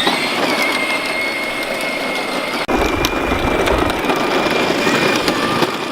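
Peg Perego John Deere electric ride-on toy tractor driving: its electric drive motor gives a steady high whine over the rolling noise of the wheels. A deeper rumble joins about three seconds in.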